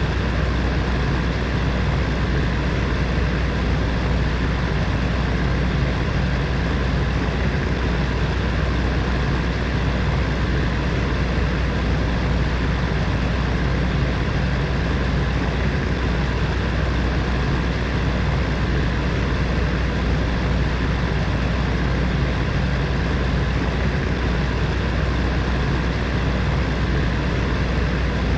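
Space heater's fan running steadily: an even rushing whir over a low hum, unchanging throughout.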